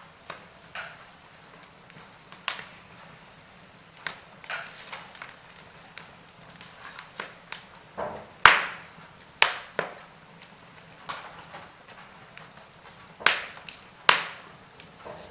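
Wood fire in a fireplace crackling, with irregular sharp pops and snaps over a low steady hiss, a few louder pops in the second half.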